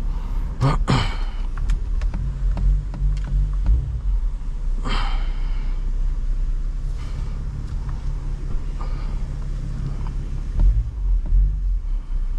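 BMW M340i's B58 turbocharged inline-six, fitted with a catless downpipe, running at low speed as a steady low rumble heard from inside the cabin. A few light clicks come near the start, and a short breathy rustle about five seconds in.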